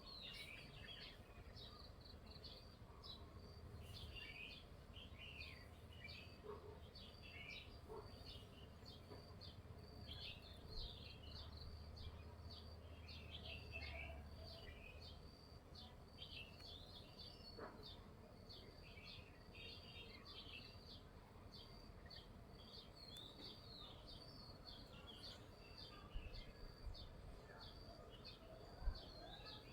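Faint, continuous chirping of many small birds, with a low hum for the first half and a soft knock near the end.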